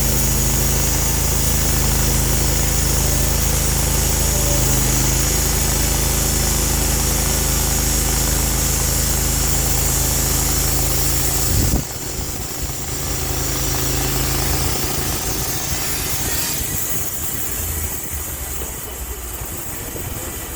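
Sawmill engine running steadily under load with a bright high hiss as the blade cuts through the log. About twelve seconds in, the cut ends and the sound drops sharply; the engine runs on more quietly, and the high hiss fades further about four seconds later.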